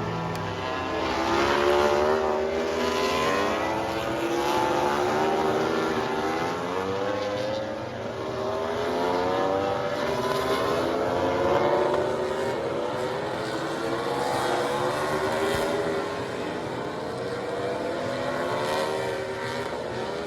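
Racing motorcycle engines at high revs going past on the track, their pitch climbing and dropping again and again, with louder swells as bikes come by.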